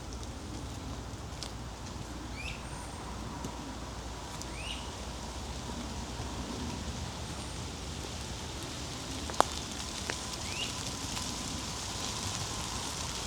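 Wet woodland after rain: a bird giving short sweeping chirps every couple of seconds over a steady low rumble. Two sharp taps come about nine and ten seconds in, the first the loudest sound.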